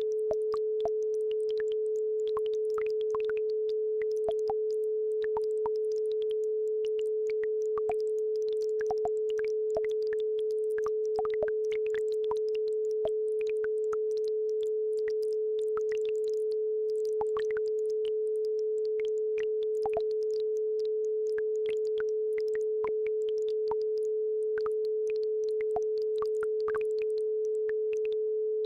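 A steady 432 Hz sine tone held without a break, with faint, scattered little blips and ticks of a babbling brook above it.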